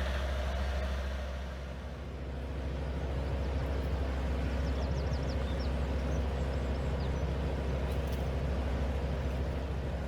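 Heavy vehicle's diesel engine running steadily at a constant speed, with a deep low hum.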